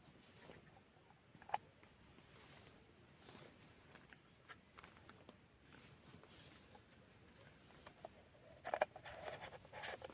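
Faint scattered clicks and rustling of small objects being handled, with one sharper tick about a second and a half in and a busier stretch of clicking and rustling near the end.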